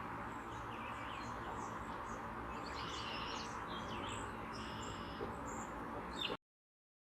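Several wild birds chirping and calling in short high notes over steady outdoor background noise. The sound cuts off suddenly about six seconds in.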